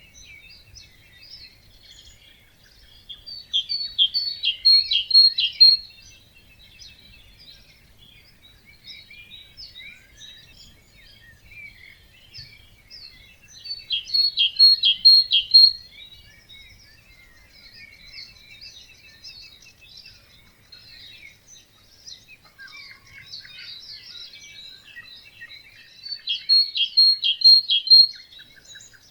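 Dawn chorus of songbirds at a wetland. One bird sings a loud phrase of a couple of seconds, a run of quick notes ending in bright repeated notes, three times at intervals of about eleven seconds, over softer twittering from other birds.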